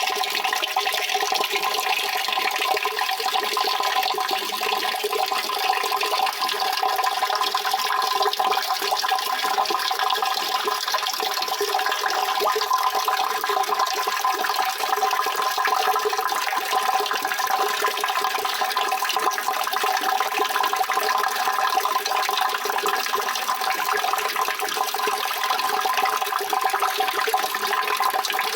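Steady rushing water, an even, unbroken flow with no change in level.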